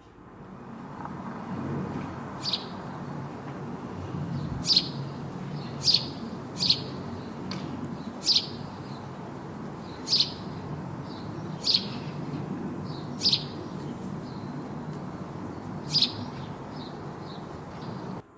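Sparrow chirping: about nine short, sharp single chirps at uneven gaps, over a steady low background noise.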